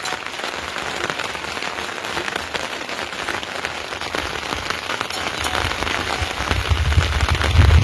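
Steady rain falling, a dense patter of drops, with a low rumble building over the last couple of seconds.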